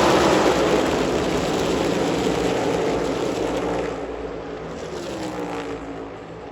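A pack of NASCAR Cup Series cars running at full speed past the grandstand, their V8 engines blending into one dense roar that fades steadily as the field pulls away. About five seconds in, one engine note drops in pitch as a car goes by.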